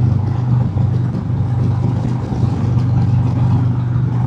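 Harley-Davidson Road King Special's Milwaukee-Eight V-twin engine running steadily while cruising on the highway, a constant low drone with wind and road noise over it.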